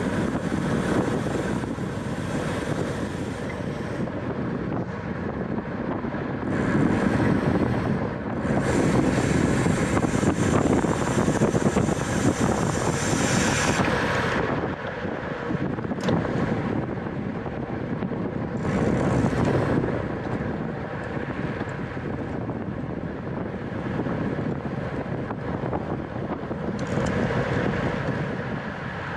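Wind buffeting the microphone of a camera on a racing bicycle at speed, a rushing noise that swells and eases every few seconds.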